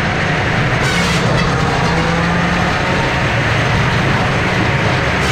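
Eastonmade 48C firewood processor running under load, its engine and hydraulics making a steady heavy hum, with a short hiss about a second in.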